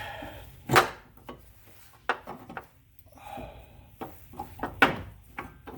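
Sharp metallic knocks and clinks, the loudest near the end, with scraping in between: a loosened suspension bolt and the old rear strut being worked free by hand.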